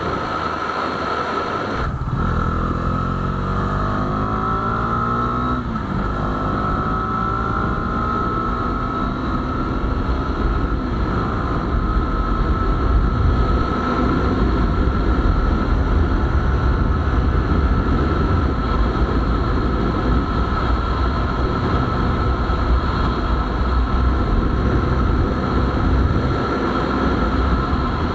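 Bajaj Dominar 250's single-cylinder engine accelerating hard. About two seconds in, its pitch climbs, drops once near six seconds at a gear change, then holds a steady high-speed drone, half buried under heavy wind noise on the microphone.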